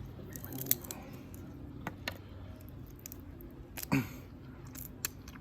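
Crab shell being cracked and picked apart by hand while eating: a few sharp cracks and clicks with wet squishing, and a brief vocal sound about four seconds in.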